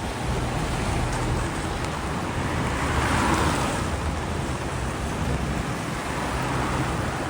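Road traffic noise: a steady engine hum and tyre hiss, swelling about three seconds in as a vehicle passes.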